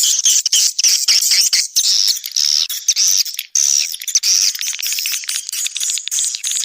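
Swiftlet-house lure recording of white-nest swiftlet calls, the "outside" track meant to draw swiftlets to a bird house: dense, continuous high-pitched chirping and twittering from many birds. A fast buzzing trill comes about four seconds in.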